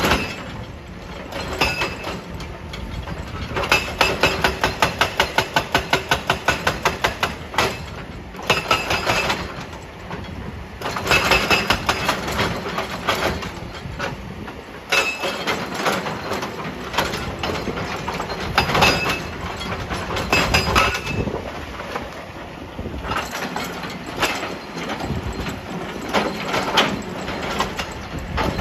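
Excavator-mounted hydraulic breaker hammering rock in bursts of rapid, evenly spaced blows a few seconds long, with pauses between them. The excavator's diesel engine runs throughout.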